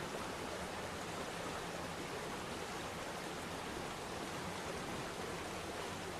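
Waterfall splashing into a pool: a steady, even rush of water with no breaks.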